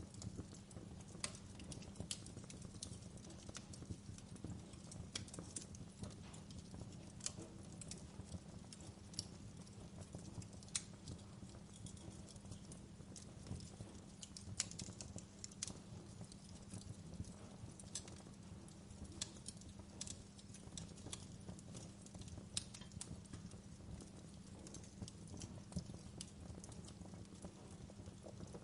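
Wood fire burning with a low steady rumble and frequent irregular sharp crackles and pops.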